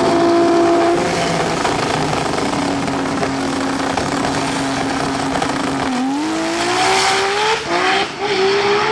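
Drag-race car engine held at steady revs, then launching about two-thirds of the way in. Its pitch climbs and drops back twice at gear shifts as it accelerates away.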